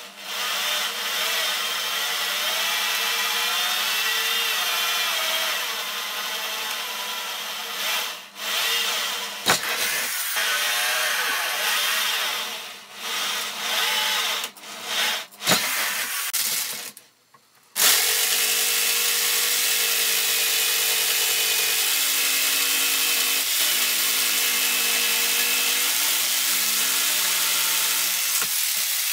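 Electric hand drill boring into laminated chipboard, running in a long stretch and then in several shorter bursts with brief stops. After a short gap a little past the middle, a jigsaw saws the chipboard steadily to the end.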